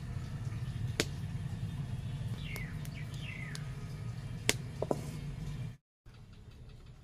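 A small bird calls twice with short, falling chirps over a steady low hum. A few sharp clicks or taps come about a second in and again near the end.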